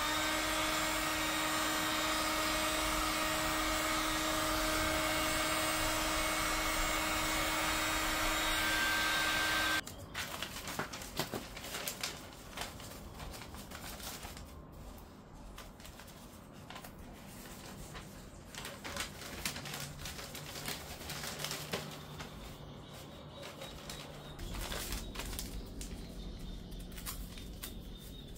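A small electric motor runs at a steady pitch for about ten seconds, then stops abruptly. Scattered clicks and knocks of tools and parts being handled follow.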